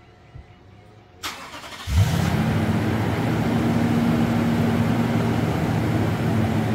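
2008 Toyota Tundra with its stock exhaust, remote-started cold: the starter cranks briefly a little over a second in, the engine catches at about two seconds with a quick initial zoom of revs, then settles into a steady idle. The idle is mostly engine fan sound with a little exhaust.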